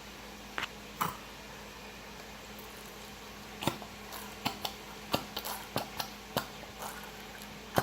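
Scattered light clicks and knocks of kitchen containers and utensils being handled, coming more often in the second half, over a steady low hum.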